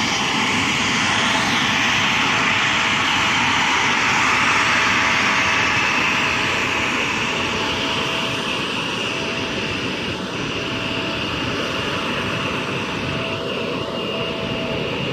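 Jet noise from a Bombardier CRJ700 regional jet's two turbofan engines: a broad, steady rush with a faint steady tone in it. It swells to a peak about four seconds in, then slowly eases as the jet moves away.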